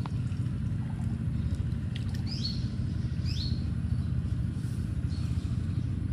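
A bird giving short, sharp chirping calls, each a quick sweep, three times about a second or two apart, over a steady low rumble.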